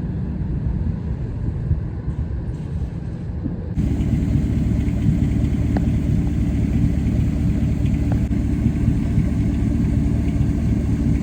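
A vehicle's engine running with a steady low rumble; the sound changes abruptly about four seconds in and becomes louder and fuller.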